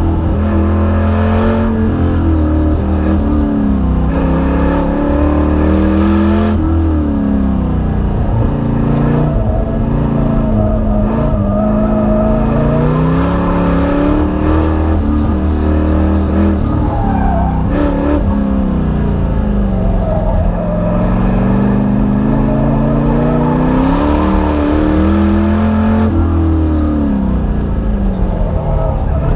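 Car engine heard from inside the cabin during an autocross run, revving up and falling back again and again as the car accelerates and lifts between the cones.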